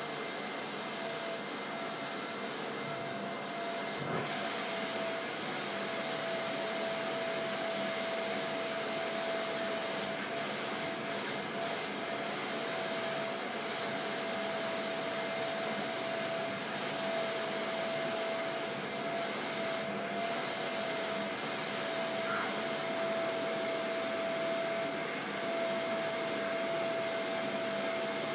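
Vacuum cleaner running steadily, a constant motor whine over an even rush of air.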